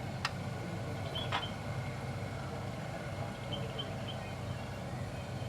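A machine running with a steady low hum, with two sharp clicks in the first second and a half.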